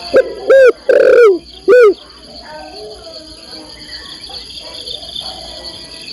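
Spotted dove (tekukur), a female calling to a male: a loud phrase of four rising-and-falling coos in the first two seconds, the third held longest, followed by fainter coos. Crickets trill steadily underneath.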